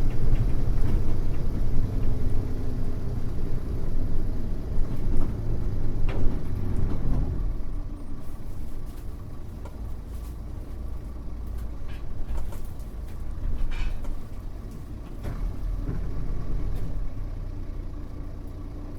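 Mitsubishi Fuso U-MK618J bus engine heard from inside the cabin, running under load with a heavy low rumble. It eases off about seven seconds in to a quieter idle-like hum as the bus slows, with a few light rattles.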